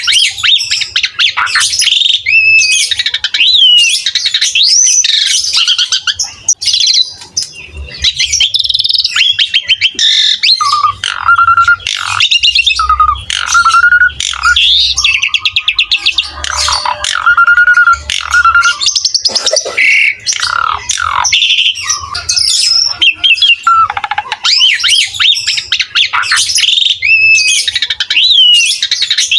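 Asian pied starling (jalak suren) singing loudly and without pause in full song: a varied run of gliding whistles, chattering notes and fast rattling trills.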